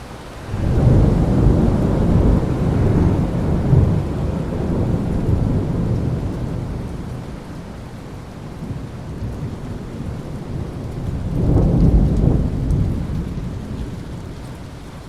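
Thunder rumbling over steady rain: a loud peal breaks in about half a second in and rolls away over several seconds, then a second rumble swells near the end.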